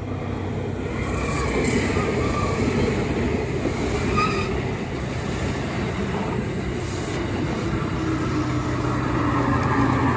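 JR Kyushu 787 series electric express train passing close at speed: a steady rumble of wheels on rail that grows louder as the cars go by.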